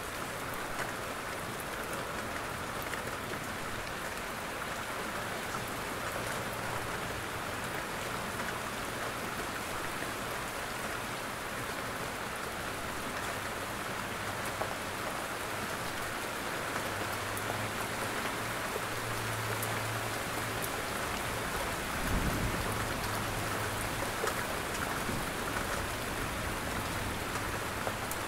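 Steady rain falling, with individual raindrops hitting a roof. A brief low rumble comes about 22 seconds in.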